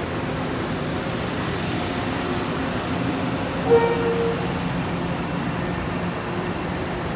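Long Island Rail Road electric multiple-unit train pulling away from a station platform: a steady rumble of wheels and running gear. About halfway through comes one short tooting tone, like a horn.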